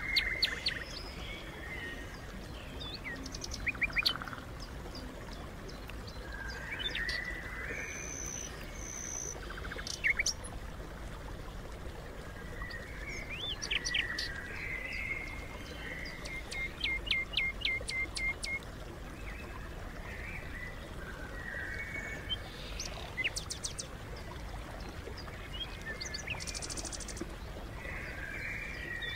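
Small birds chirping and calling on and off, with a quick run of repeated chirps a little past halfway.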